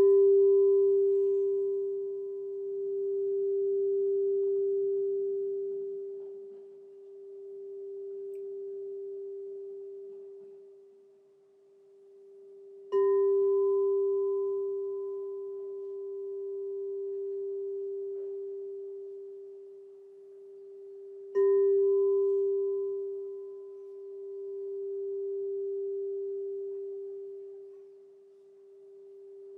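Crystal singing bowl struck three times, at the start, about 13 seconds in and about 21 seconds in. Each strike rings on as one long, pure tone with a fainter higher overtone, its loudness swelling and fading in slow waves.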